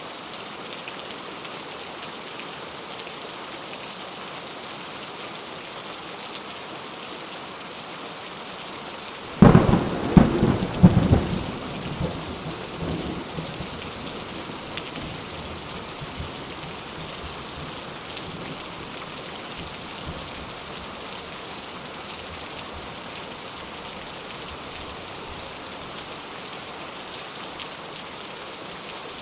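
Steady rain falling, with a sharp thunderclap about a third of the way in that cracks several times and rumbles away over about three seconds.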